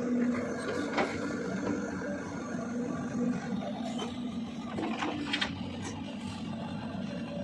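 Cat 320DL long-arm excavator's diesel engine running steadily, with a few short knocks about a second in and again around four to five and a half seconds in.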